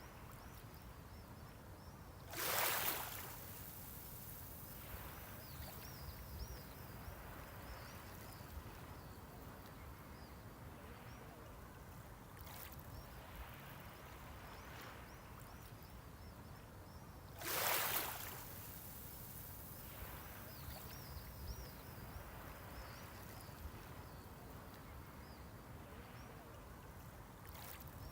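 Small sea waves breaking and washing up the shore over a steady low rumble of the sea. Two larger waves wash in with a loud hiss, about a second in length each, one near the start and one about fifteen seconds later, with weaker washes between.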